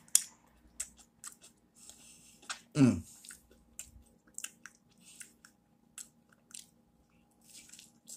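A person chewing and biting food close to the microphone, with many short sharp mouth clicks. About three seconds in comes one brief, louder vocal sound that falls in pitch.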